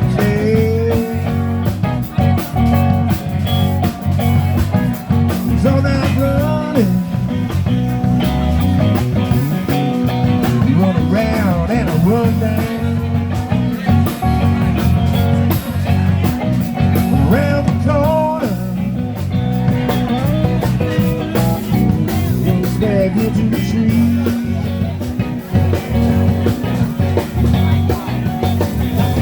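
Live band playing a blues-rock song: guitar lines with bending notes over bass and drums, loud and continuous.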